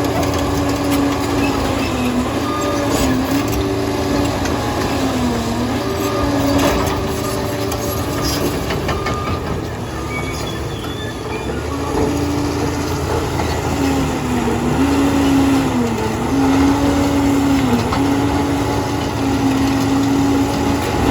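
Liebherr PR 746 crawler dozer's diesel engine running steadily. Its pitch dips and recovers several times as it comes under load, with scattered knocks and clanks.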